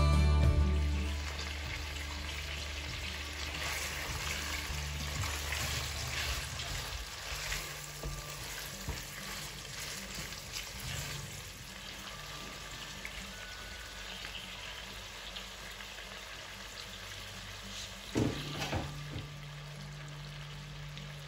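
Chicken pieces sizzling as they fry in butter and oil in a stainless steel pot, with the scrape and clack of a spatula stirring them against the pot. There is one louder knock about 18 seconds in. Background music fades out in the first second.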